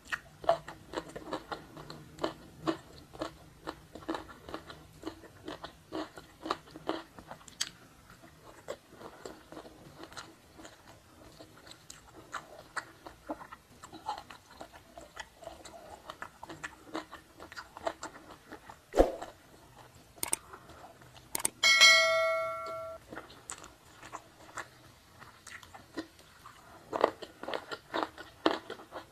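Close-miked chewing and biting of a meal eaten by hand: wet, clicky chewing with crunchy bites, busiest at the start and near the end. A sharp knock comes a little over halfway through, and a short ringing clink, the loudest sound, about three quarters of the way in.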